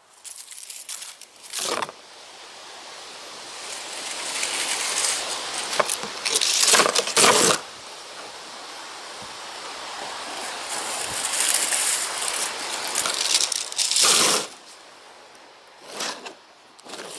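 Gusty wind driving dry autumn leaves, which rustle and scrape as they blow across a deck. The sound swells and fades with the gusts, with short louder surges about two seconds in, around seven seconds and near fourteen seconds.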